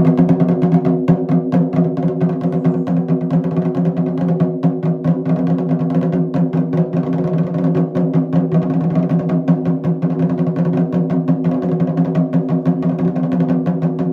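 Taiko drums struck in rapid, continuous strokes, with some sharp wooden clacks, over music that holds steady sustained tones.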